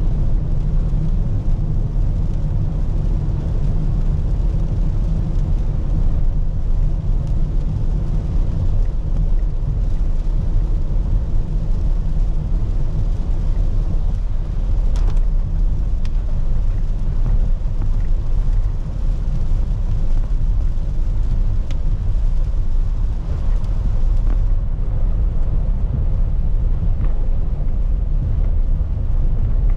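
A car driving on a wet road in rain, heard from the dashcam inside the car: a steady low rumble of tyres and engine under a hiss of rain, with a few faint ticks.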